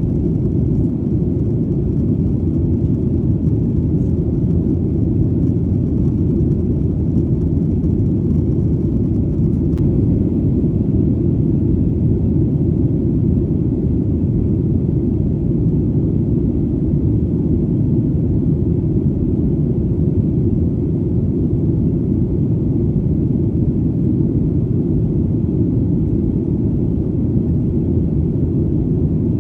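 Steady, deep airplane engine drone: an even rumble with no rise or fall.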